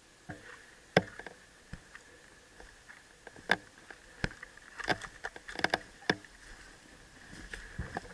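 Irregular sharp clicks and knocks, about a dozen, the loudest about a second in and several close together past the middle, over a faint steady high tone.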